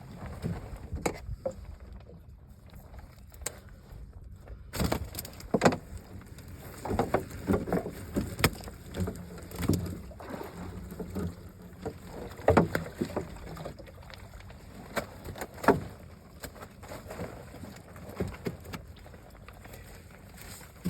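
Irregular knocks, thumps and clatter in a small fishing boat on the water as a net is worked, over a low steady rumble.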